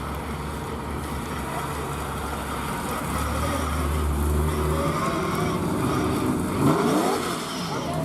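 Car engine running in street traffic, growing louder through the stretch, with a low steady hum and some rising and falling engine pitch near the end.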